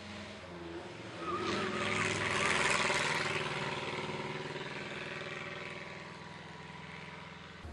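Classic competition car's engine under hard acceleration as it passes, swelling to its loudest about two to three seconds in and then slowly fading. A brief wavering squeal of tyres about a second and a half in.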